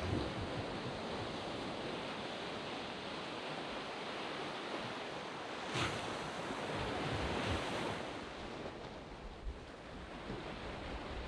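Waves breaking and washing up a sand beach: a continuous surf wash that swells as a wave breaks about six seconds in and eases off after about eight seconds, with some wind on the microphone.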